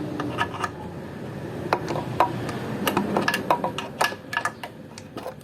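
Irregular metallic clicks and clinks of a 10mm open-end wrench working a rusty bolt loose, as the wrench is fitted, turned and repositioned on the bolt head.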